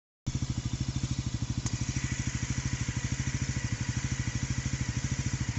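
Bajaj Pulsar NS400Z's single-cylinder engine idling steadily with a fast, even beat, a new engine being warmed up at idle to run it in. The sound cuts in just after a brief dropout at the start.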